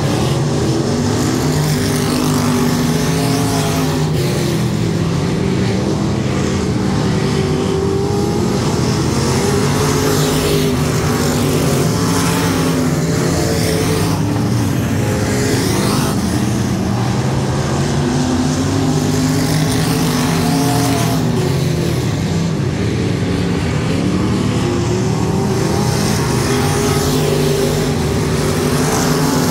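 Race car engines running hard on a dirt oval, their pitch rising and falling again and again as the cars accelerate down the straights and lift for the turns.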